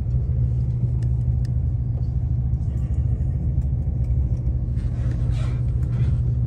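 Steady low rumble inside the passenger cabin of a Sapsan high-speed electric train (Siemens Velaro RUS) as it runs along the line, with a soft hiss rising briefly about five seconds in.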